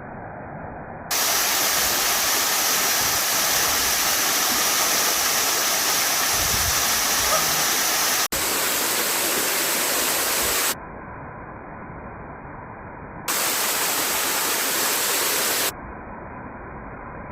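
Waterfall with a steady rush of falling water. The sound jumps abruptly between a louder, brighter rush and a quieter, duller one: louder from about a second in to about ten seconds in, quieter until about thirteen seconds, louder again until about sixteen seconds.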